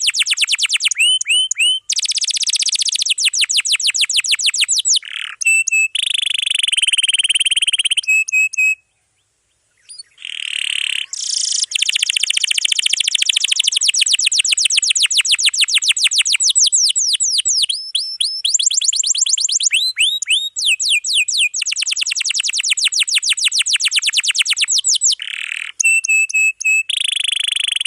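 Domestic canary singing a dense song of rapid trills, one run of fast repeated notes after another with changes of pattern every second or two, and a brief pause about nine seconds in.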